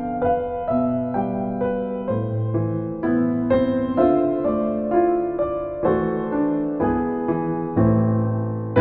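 Slow, gentle solo piano music: single notes and chords struck about every half second, each ringing and fading.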